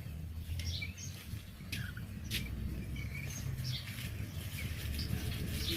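Budgerigars chirping: short, scattered high chirps with a few sharp clicks, over a steady low rumble.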